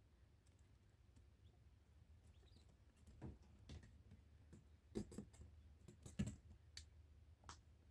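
Faint, irregular light clicks and taps, a few scattered ones starting about three seconds in, with the sharpest two near the end.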